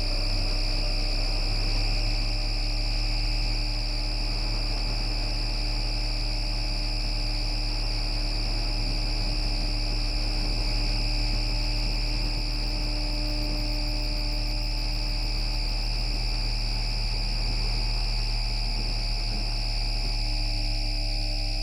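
Bombardier Flexity Outlook tram's MITRAC IGBT VVVF inverter and traction motors whining steadily while running: several close tones climb slightly at first, hold, then begin to drop near the end. Steady high-pitched tones and a low hum run underneath.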